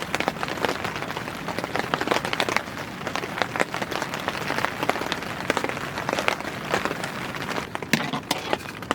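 Heavy rain falling, with dense, irregular drops striking hard close by.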